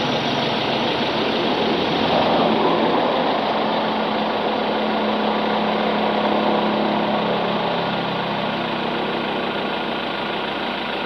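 A vehicle engine running steadily, with a low hum under a dense rushing noise.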